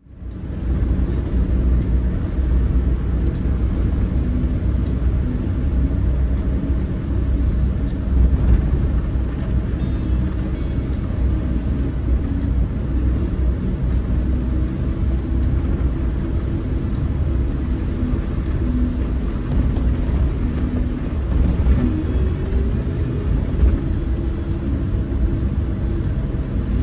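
A motorhome driving on a wet road in the rain: steady engine and tyre rumble.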